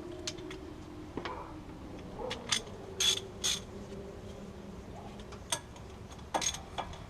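Hand tools working on the hub assembly's bolts: scattered sharp metallic clicks and clanks of a socket wrench, the loudest pair about three seconds in.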